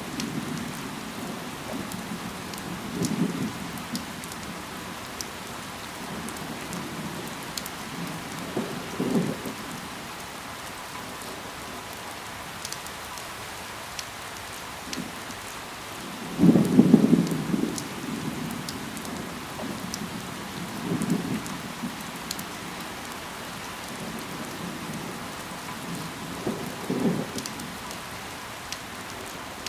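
Steady rain falling on leaves, with scattered sharp drips. Short low rumbles come every few seconds, the loudest about halfway through.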